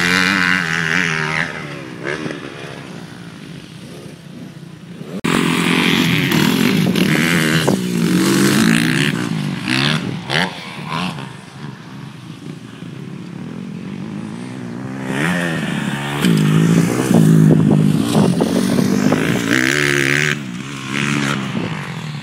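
Motocross bikes revving on a dirt track, engine pitch repeatedly climbing and dropping through the gears as riders accelerate and pass. The sound swells and fades several times and jumps suddenly louder about five seconds in.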